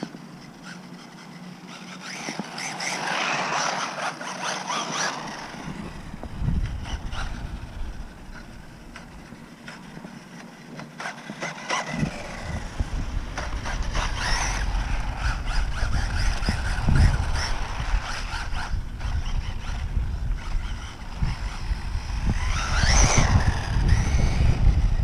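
Small electric RC short course truck (WLtoys 1/18 scale) driving in three bursts, its motor and drivetrain whine rising and falling, over a low rumble on the microphone that comes and goes.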